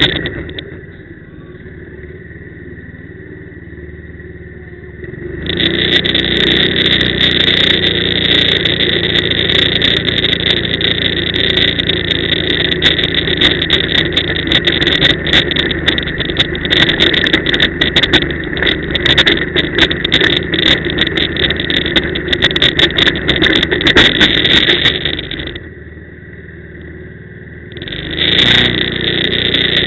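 Quad (ATV) engine running under throttle while riding, dropping back to a quieter idle twice: for about five seconds near the start and for a couple of seconds near the end. Wind buffeting and knocks on the mounted camera's microphone crackle over the engine while it is under power.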